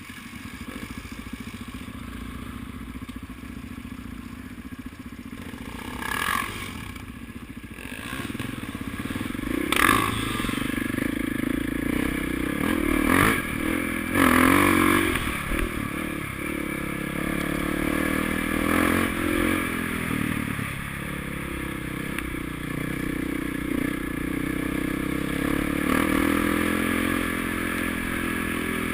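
Motocross motorcycle engines running and revving, their pitch rising and falling and growing louder after about eight seconds, with a few sharp knocks.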